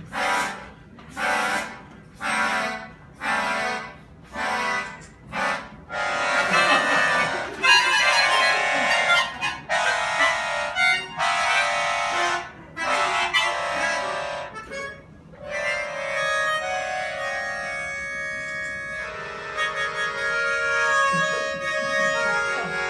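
Harmonica music: short rhythmic chord pulses about every three quarters of a second for the first six seconds, then longer held chords, then a steadier line of held notes.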